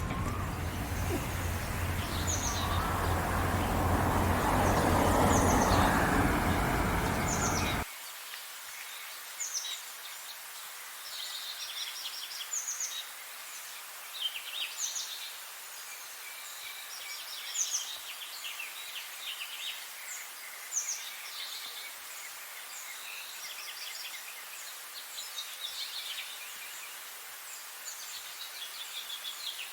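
Many small songbirds chirping and trilling. For the first eight seconds a loud, low, broad background noise swells under them and then cuts off suddenly, leaving the birdsong over a quieter background.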